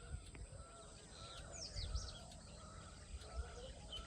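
Several wild birds chirping and calling, with a few quick downward-sweeping high whistles about one and a half to two seconds in.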